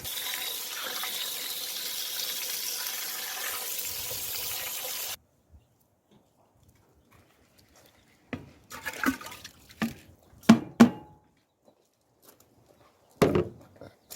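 Steady watery rushing hiss from liquid in a cast-iron cauldron of fish porridge over a wood fire, cutting off suddenly about five seconds in. A few short knocks and clatters follow.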